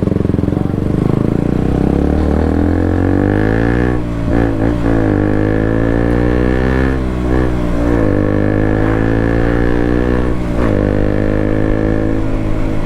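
KTM RC 200's single-cylinder engine through an aftermarket Akrapovic full-system exhaust, pulling away and accelerating through the gears. The pitch climbs, then drops at each upshift, several times.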